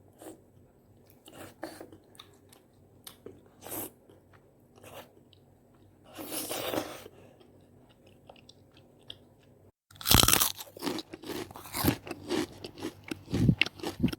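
Close-miked chewing and crunching of food in the mouth: sparse, softer bites at first, then louder, denser chewing after a brief dropout about two-thirds of the way through.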